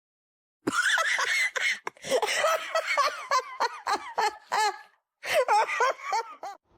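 A person laughing hard in rapid, high-pitched bursts. It starts after a short silence about half a second in and breaks off briefly twice.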